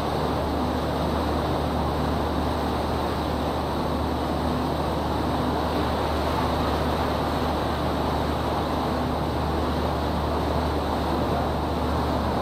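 River sightseeing boat's engine running steadily: a constant low drone with a steady hum over a broad rush of noise.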